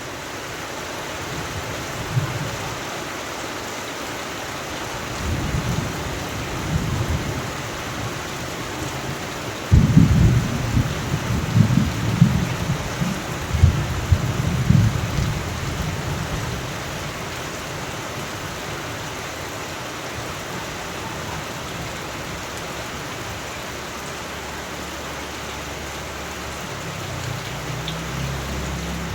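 Thunderstorm: steady rain with rolling thunder. A sharp crack of thunder about ten seconds in rumbles on for several seconds, with softer rumbles before it and again near the end.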